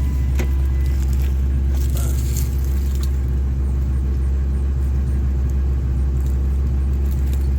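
A steady low mechanical drone with a few steady tones, unchanging throughout.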